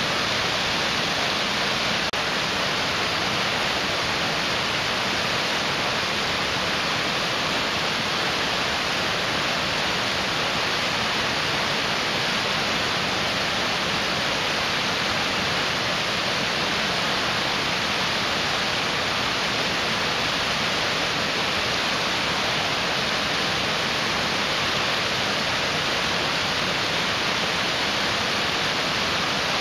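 A rushing mountain stream: fast water running over rocks in a steady, even rush with no change in level.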